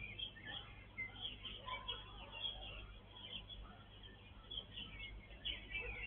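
Small birds chirping and twittering, with many short high calls overlapping, over a faint steady low hum.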